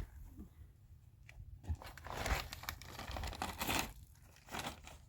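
Crinkling and tearing noises, as of material being crumpled or pulled apart by hand, in a long irregular stretch through the middle and a short burst near the end.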